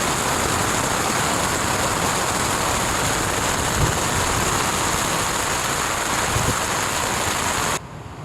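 Heavy thunderstorm rain, a dense steady hiss that stops abruptly near the end.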